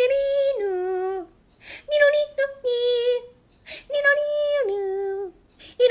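A high-pitched voice singing a short tune in held notes that step up and down, in three phrases with brief pauses between them.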